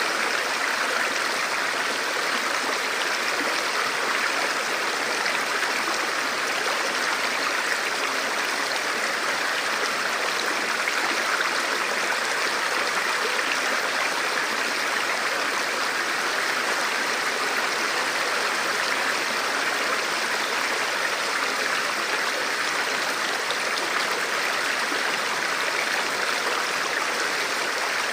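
Forest stream flowing steadily over rocks, a continuous rushing babble of water.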